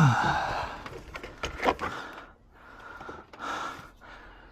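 A man breathing heavily in and out as he works, a breath about every second and a half, with one sharp click of a handled part about a second and a half in.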